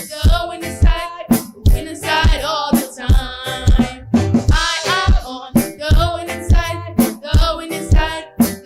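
A worship song for children: a woman singing over a band with a steady drum beat.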